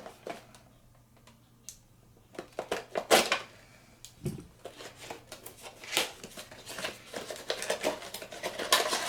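HeroClix booster pack being opened by hand: a run of clicks and crinkles as the plastic packaging is worked and the hard plastic miniature figures clack together. It is quieter at first and busier from about two seconds in.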